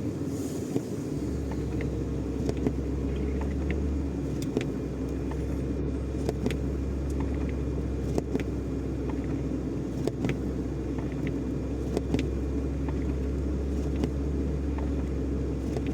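Truck's diesel engine running steadily under load on an uphill climb, heard from inside the cab as a low drone that deepens about a second in, with scattered faint clicks.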